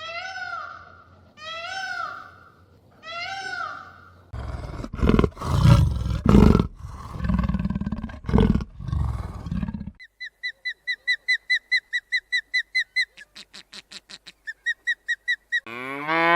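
A run of animal calls: meow-like calls repeated about once a second, then several loud roars, then rapid high chirps, about three a second, and a cow's moo begins near the end.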